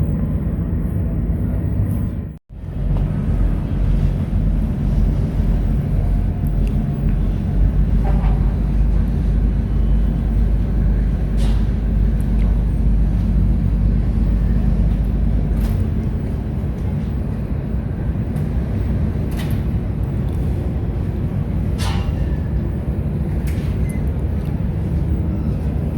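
Steady low rumble of a moving vehicle, heard from inside, with a few faint clicks. The sound cuts out for a moment about two and a half seconds in.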